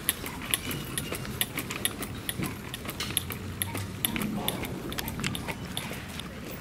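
Pembroke Welsh corgi crunching treats, with many short, irregular crunches over a low background murmur.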